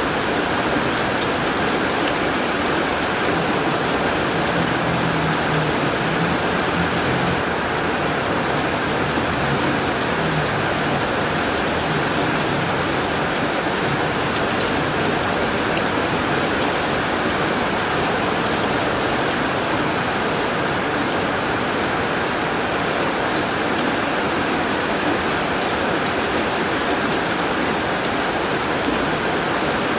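Steady heavy rain drumming on a tin roof, a dense even patter of drops. A faint low rumble of distant thunder sits under it for several seconds, from about three seconds in.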